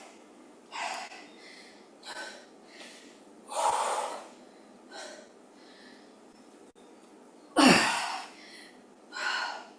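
A woman's hard, audible breaths under exertion, about six sharp puffs of air a second or two apart, the strongest two near the middle and near the end. She is breathing through a weighted squat, overhead press and knee drive.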